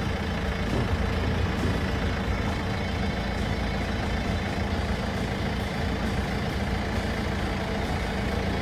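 A vehicle's engine running steadily with road noise, a constant low drone that does not change in pitch.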